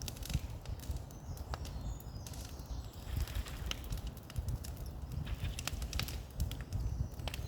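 Bonfire crackling and popping, with many sharp snaps scattered through, over a steady low rumble.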